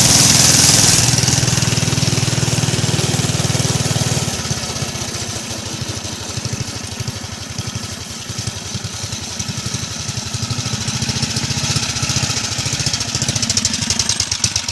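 A minibike's small engine runs on gasoline vapor drawn from a vapor tank. It is loud at first, then drops back after about four seconds to a slower, uneven run where each firing stroke can be heard. It dies right at the end, starved on the vapor fuel.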